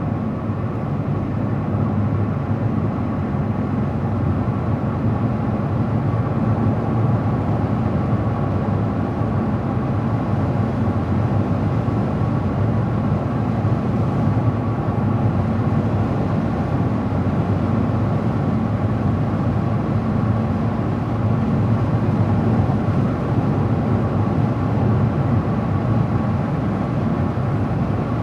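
Steady noise of a car driving on the road: tyre and engine hum, mostly low-pitched and unchanging, with a faint steady tone above it.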